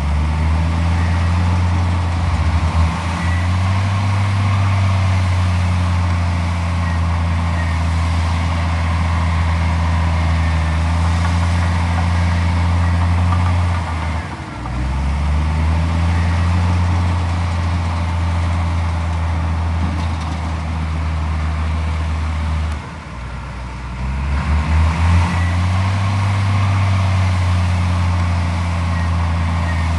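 Heavy diesel engine of earthmoving machinery running under load with a steady low drone. Its pitch sags twice, about halfway through and again a little later, then climbs back.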